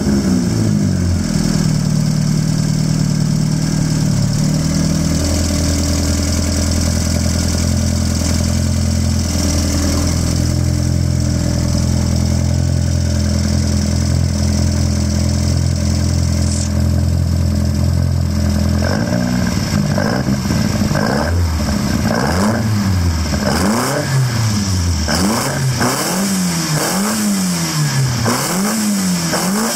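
Škoda 100's four-cylinder engine running on twin Weber carburettors, just started. It runs at a fast idle, settles to a lower steady idle about five seconds in, then in the last third is blipped again and again by hand at the carburettor linkage, the revs rising and falling about once a second.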